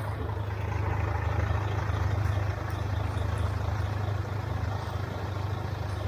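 City street traffic: a vehicle engine running with a steady low drone, over an even hiss of wet road and rain, swelling a little about a second in.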